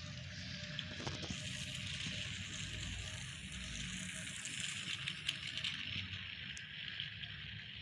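Electric toy train running on its track: a steady whirring rattle with a few scattered clicks.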